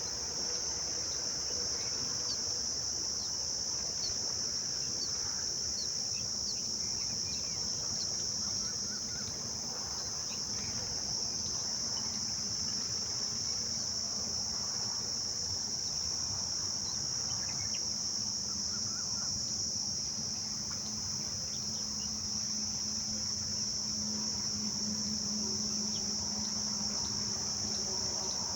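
Steady, unbroken high-pitched chorus of insects, with faint short chirps repeating in the first several seconds.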